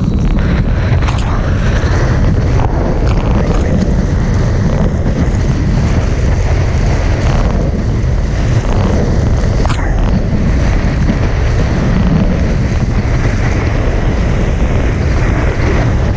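Strong wind buffeting an action camera's microphone, with water rushing past the hulls of a Hobie 16 catamaran sailing fast in high wind. The sound is a loud, steady noise, heaviest in the low range.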